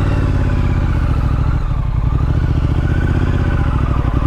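Triumph Street Scrambler's 900 cc parallel-twin engine running steadily at low revs, with an even, rapid pulse of firing strokes.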